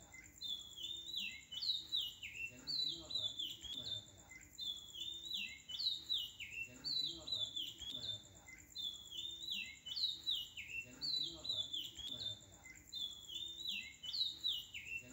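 Birds chirping: quick falling chirps in short phrases repeating about once a second, with a steady high whine underneath.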